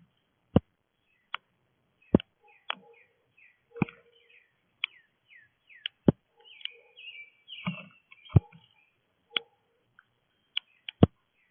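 Small birds chirping in short falling notes, over a dozen or so irregularly spaced sharp taps and knocks, which are the loudest sounds.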